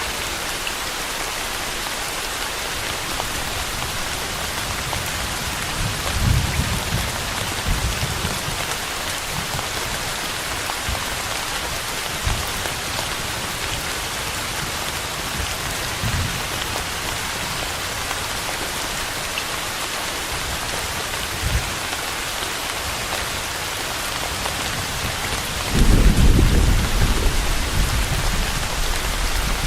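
Steady rain falling in an even hiss, with low thunder rumbling under it: a short rumble about six seconds in, a few faint ones after, and a louder, longer roll of thunder near the end.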